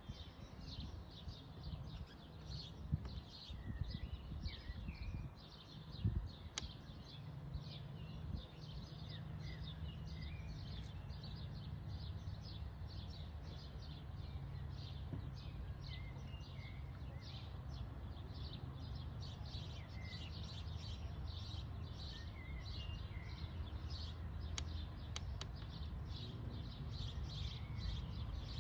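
Small birds chirping in a fast, continuous run of short high calls over a low steady hum, with a few knocks in the first several seconds.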